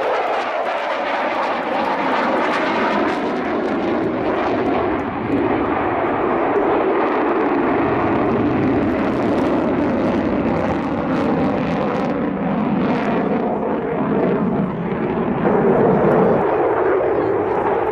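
Fixed-wing aircraft engine noise in flight, a loud steady rushing sound that swells slightly near the end.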